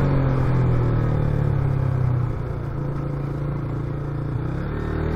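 Motorcycle engine running steadily while riding, its note easing off and getting quieter a little over two seconds in.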